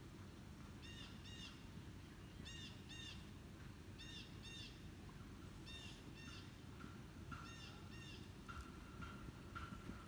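A bird calling: short, arching calls given in pairs, repeating about every second and a half, over a low steady outdoor rumble.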